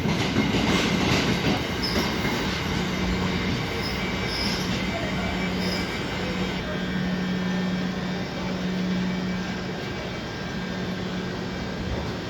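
Electric passenger train running with a steady hum, a low drone held throughout.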